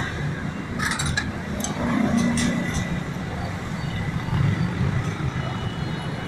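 Road traffic running steadily, with a quick series of sharp clicks about a second in.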